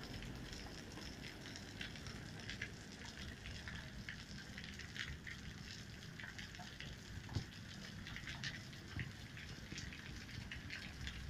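Monsoon rain falling steadily: a hiss of many drops ticking and pattering on wet concrete, with a few louder taps.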